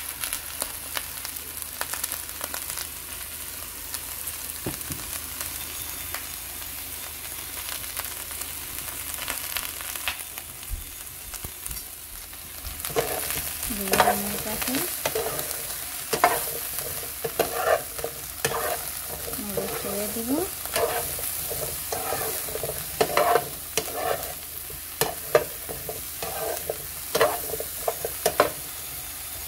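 Cauliflower florets sizzling as they fry in a little olive oil in a frying pan. From about halfway on, a spatula stirs them, scraping and knocking against the pan in quick repeated strokes.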